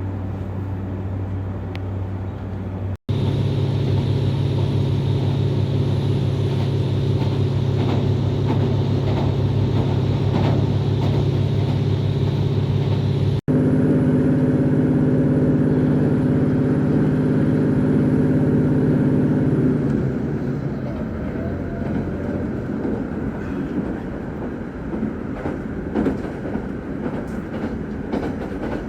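Train running: a steady drone with a stack of even pitched tones that jumps to a new pitch twice, about three seconds in and again a little before halfway. Over the last third the drone gives way to a rougher rumble with scattered knocks.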